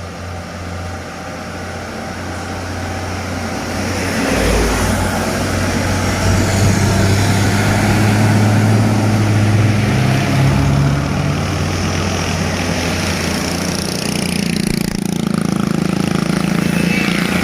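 Heavy diesel truck engine pulling up a steep grade, growing louder over the first several seconds as it approaches, with a change in engine note about eleven seconds in.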